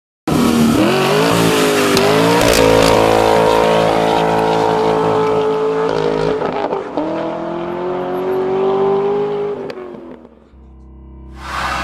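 Car engine running hard at high revs, its pitch climbing and holding, dropping at a gear change about six seconds in, then climbing again before it fades out near the end, when music begins.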